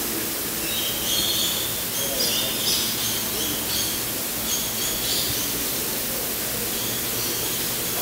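Birds chirping in short, high calls that come in clusters every second or so, over a steady hiss of background noise.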